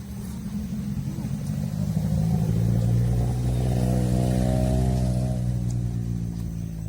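A motor vehicle's engine passing close by. Its steady engine note grows louder over the first couple of seconds, holds for a few seconds, then fades away toward the end.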